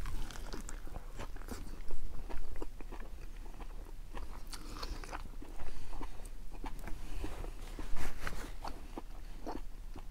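A person chewing and biting into a burger and pieces of pepper: a run of short, irregular crunches and mouth clicks, louder about two, six and eight seconds in.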